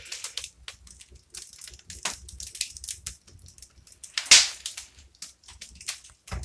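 Fire crackling in a fireplace: irregular snaps and pops, with one loud pop about four seconds in.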